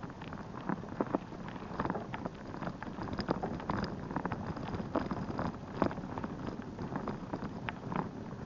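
Bicycle rolling along a rough path: an irregular crackle of small clicks and ticks over a steady rushing noise.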